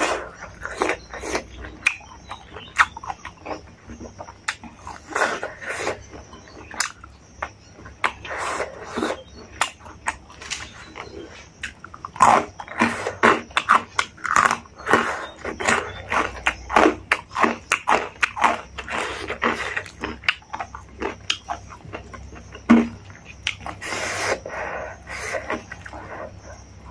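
Close-miked eating sounds: wet chewing and lip smacks on pork and rice, with dense crunching of fried kurkure snacks from about halfway in.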